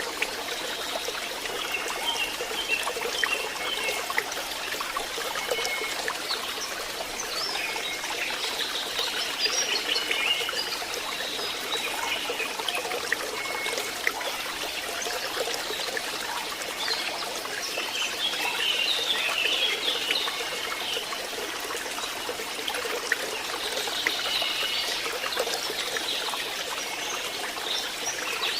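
A small stream trickling and splashing steadily, with clusters of bird chirps every several seconds.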